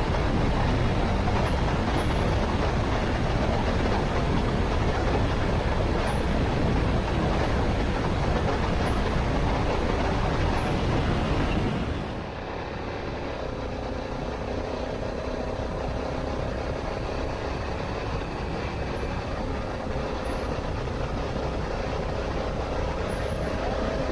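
Motorcycle riding at highway speed: heavy wind rush with the engine running underneath. About halfway through the wind noise drops and a steady engine drone comes through more clearly.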